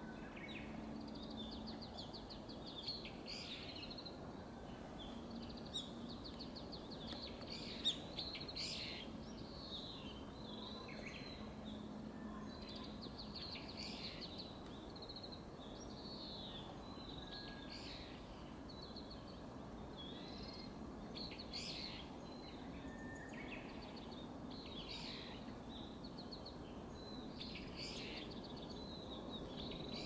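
Small songbirds chirping and calling in overlapping bursts, with quick trills and short chirps following one another every second or so. A faint steady low hum runs underneath.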